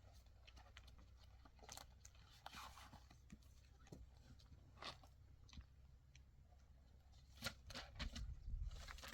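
Near silence with faint, scattered clicks and rustles, a little busier near the end.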